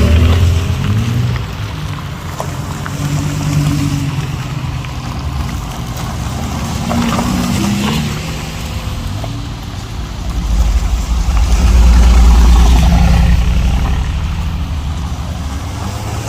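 Car engines running and revving, the pitch rising and falling several times, with a loud low rumble from about ten to thirteen seconds in.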